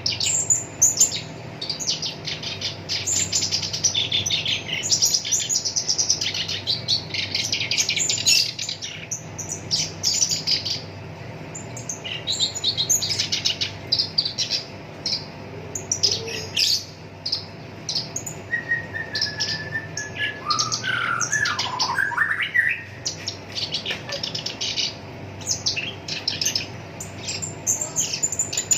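Black-browed reed warbler in full song: fast, harsh chattering phrases with rapid rolling trills, broken by short pauses. About two-thirds of the way through come a few lower whistled and falling notes. A faint steady hum runs underneath.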